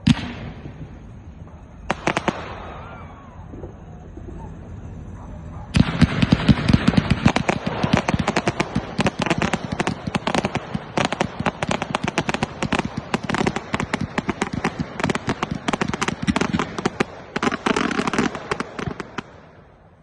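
Fireworks going off: a sharp bang right at the start and another burst about two seconds in. From about six seconds comes a dense, rapid barrage of crackling bangs that stops just before the end.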